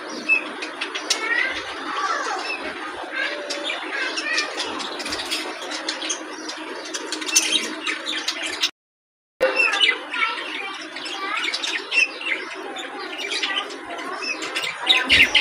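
Budgerigars chattering and warbling continuously, with many short rising and falling chirps. The sound drops out completely for under a second just past the middle, then the chatter resumes.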